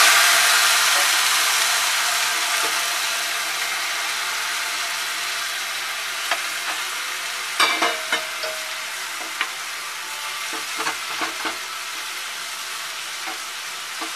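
Ghee-roasted vermicelli sizzling in a kadhai just after hot sugar syrup has been poured in, the sizzle fading gradually. From about six seconds in, a utensil clicks and scrapes against the pan as it is stirred.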